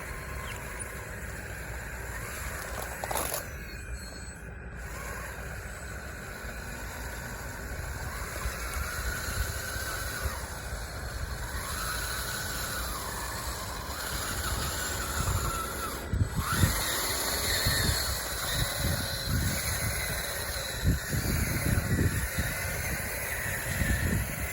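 Small electric drive motors of an RC bulldozer whining, their pitch rising and falling as it drives and pushes, over low rumbling and irregular bumps that grow busier in the second half.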